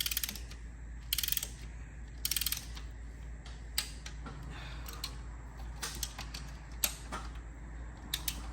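A hand ratchet clicking in three short bursts about a second apart, then several single sharp clicks, as the cylinder-head fasteners are run down on the engine.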